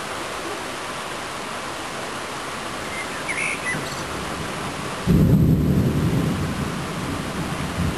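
Steady hiss of rain during a thunderstorm. About five seconds in, a sudden loud clap of thunder breaks into a deep rumble that rolls on and slowly fades.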